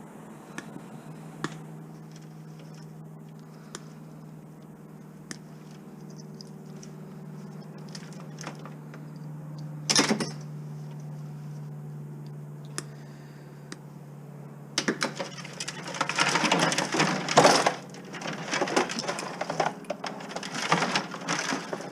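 Small scrap items such as plastic adapters and cords being handled and dropped: scattered clicks, one sharp clatter about ten seconds in, then several seconds of continuous clattering and rattling near the end. A steady low hum sits underneath for the first part.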